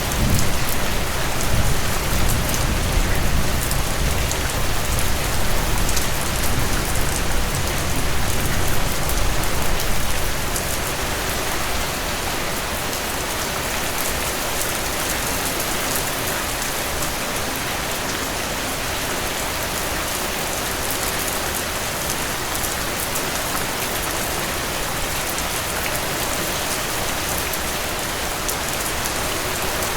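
Heavy rain falling steadily and pattering on a surface, with a deep low rumble under it for the first ten seconds or so.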